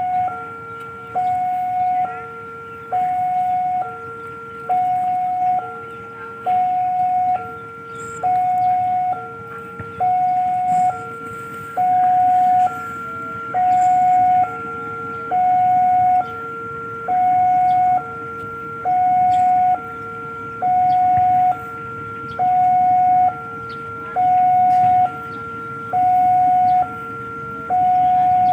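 Railway level-crossing warning alarm sounding: an electronic two-tone signal alternating evenly between a higher and a lower tone, about one change a second, the higher tone louder. It warns that a train is approaching and the crossing is closing.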